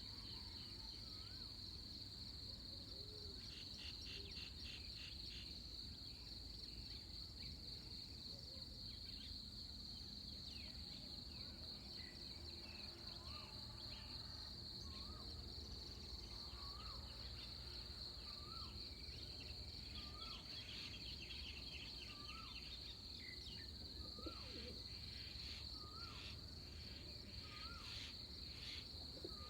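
Insects trilling steadily on one high note, with birds calling over them: one bird repeats a short rising note about once a second from halfway through, among scattered chirps from others. A low rumble of breeze underlies it.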